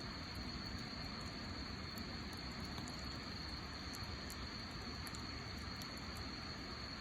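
Wood fire burning steadily with a low rush and sparse faint crackles. A steady high-pitched tone sits behind it throughout.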